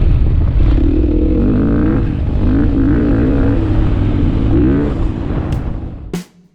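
Dirt bike engine running over a heavy low rumble, its pitch wavering up and down as the throttle is worked. It cuts off suddenly near the end.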